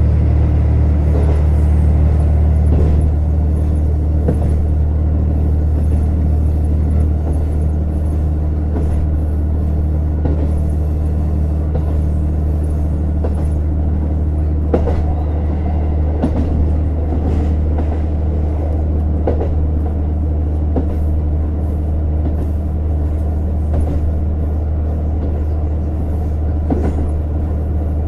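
Running sound inside a JR Hokkaido KiHa 150 diesel railcar: a steady low diesel engine drone with wheel and track rumble, and scattered sharp clicks and knocks from the wheels over the rails. The drone eases slightly a few seconds in.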